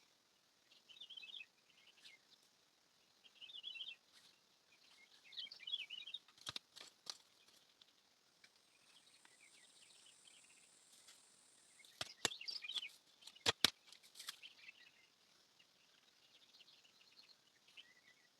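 Small birds chirping faintly in short bursts every couple of seconds, with a few sharp clicks near the middle and a quick cluster of louder clicks later on.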